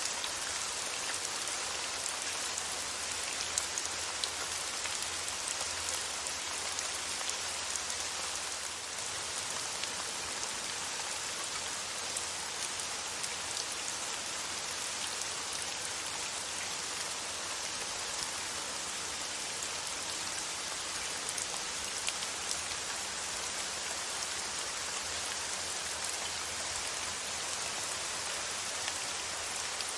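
Steady rain falling, a constant hiss with scattered small drop ticks, used as a relaxing rain white-noise track.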